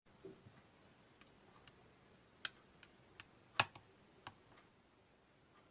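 Faint, irregular clicks and taps, about a dozen scattered over several seconds, with two louder ones in the middle.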